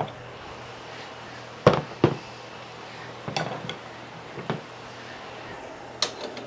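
Sharp metallic knocks and clinks from tools working on a stuck steering pinion gear: two loud ones about two seconds in, a few lighter ones after, and a quicker run of clinks near the end, over a faint steady hum.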